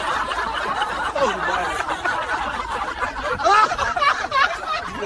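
People laughing and snickering after a joke, in short uneven bursts that pick up about three seconds in.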